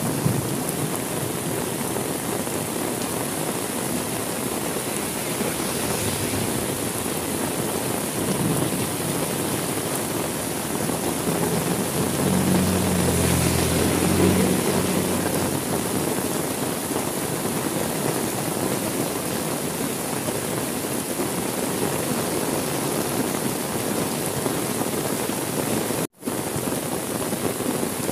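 Steady heavy rain pouring and splashing on surfaces. A low rumble swells for a few seconds around the middle, and the sound drops out for a split second near the end.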